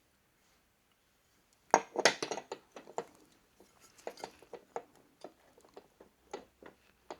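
Metal engine parts clinking and knocking as the cleaned flywheel parts are tried back in place by hand: a dense cluster of sharp clinks about two seconds in, then scattered lighter clicks.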